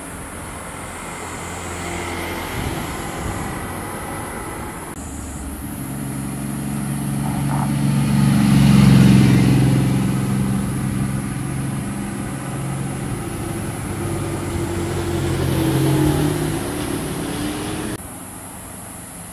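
Motorcycle engines passing on a road, swelling as each bike approaches and fading as it goes by, loudest about halfway through and again near the end, with abrupt changes that mark edits between passes.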